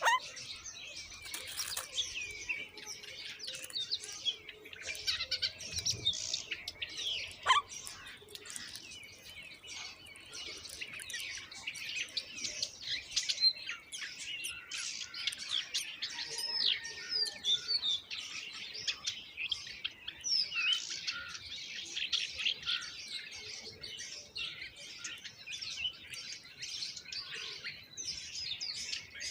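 Baby mynas chirping: a dense, unbroken stream of short, high calls, typical of nestlings begging for food.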